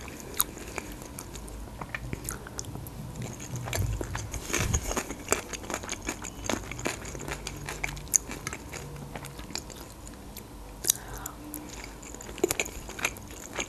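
Close-miked chewing of dolma (stuffed peppers, tomatoes and eggplant), with many small mouth clicks and smacks throughout.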